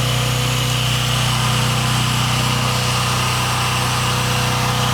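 Pressure washer running: a steady engine drone with the even hiss of the water spray from the wand as soap is laid onto the house.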